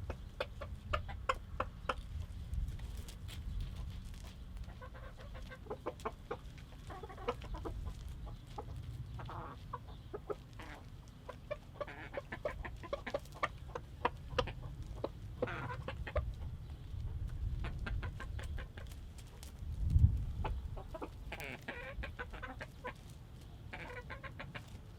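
Rooster clucking to hens with rapid short clucks, the food call that tells hens where food is, with a few longer calls now and then. A low thump about twenty seconds in is the loudest moment.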